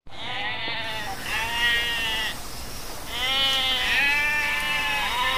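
Goat kid bleating over and over: high, quavering calls about a second long each, with short breaks between them.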